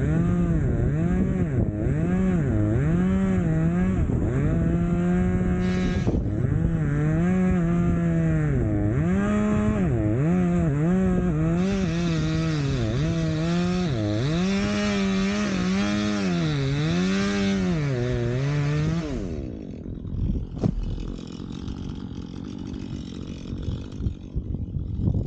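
Two-stroke chainsaw cutting firewood logs, its engine speed rising and falling again and again as it works through the wood. About 19 seconds in it drops off to a much quieter, uneven sound.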